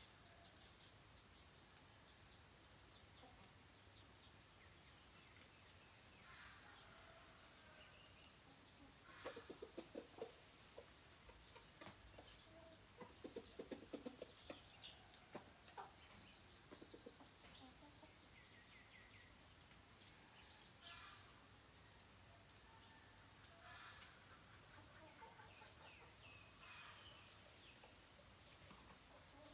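Faint rural morning ambience: a steady, pulsing high insect trill, with chickens clucking in short bouts about a third of the way in and again near the middle, and scattered bird chirps.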